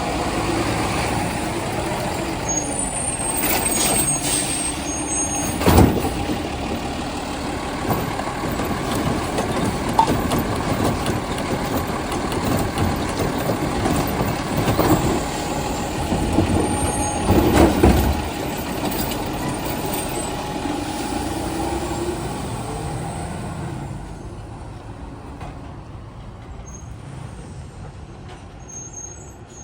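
Heil STARR side-loader garbage truck running, its engine and hydraulics steady, with loud bangs about six seconds in and again around seventeen to eighteen seconds. The sound grows quieter over the last few seconds.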